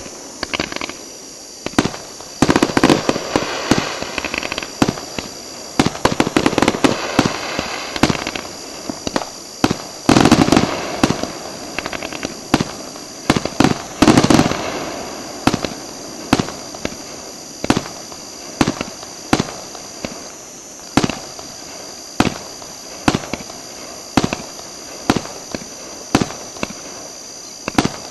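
Aerial fireworks shells bursting: a run of sharp bangs, dense and crackling in clusters for the first half, then single reports about once a second.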